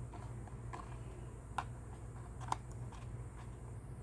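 A few light, separate clicks and taps as a small plastic RC helicopter's body is handled and picked at with the fingers, over a low steady hum.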